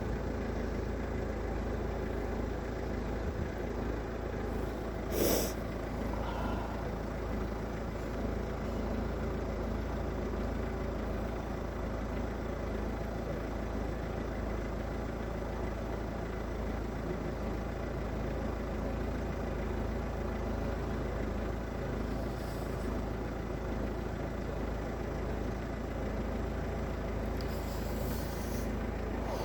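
Steady low rumble of vehicles, with one brief sharp knock about five seconds in.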